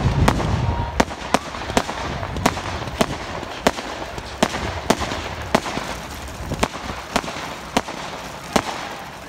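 Fireworks going off: a string of sharp bangs and cracks, roughly one to two a second, over a steady background hiss, with a deep boom dying away at the start.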